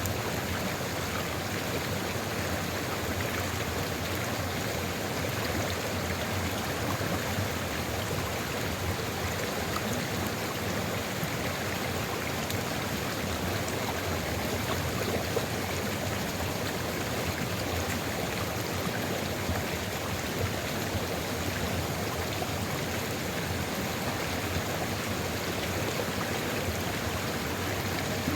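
Sulfur river flowing steadily, an even rushing of running water with no breaks.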